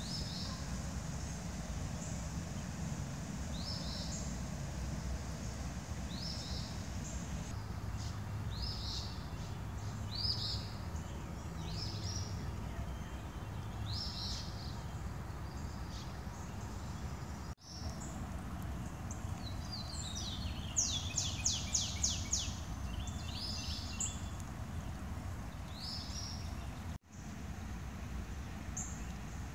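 A songbird calling over and over, short high notes about once a second, with a quick trill of half a dozen notes about two-thirds of the way through, over a steady low rumble of outdoor background noise.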